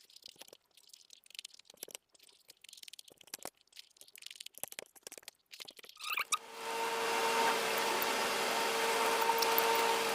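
Close-miked chewing and wet mouth clicks of someone eating rice and curry, soft and sparse. About six seconds in it gives way suddenly to a louder, steady mechanical hum with one constant low tone.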